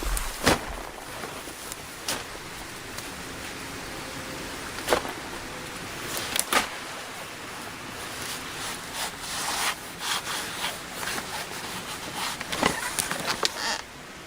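Irregular knocks and clatters, with a busier stretch of scraping and rustling in the second half: hand work with wood.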